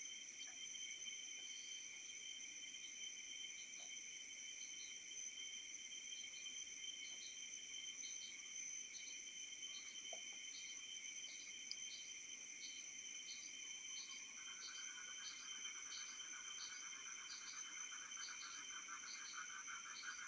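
Night chorus of crickets and other insects: several steady shrill high tones, with one cricket chirping at an even pace of about one and a half chirps a second. A lower pulsing trill joins about two-thirds of the way through.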